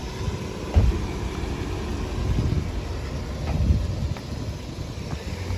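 Low, uneven rumble of patrol SUVs idling, with a sharp thump about a second in and a few fainter knocks.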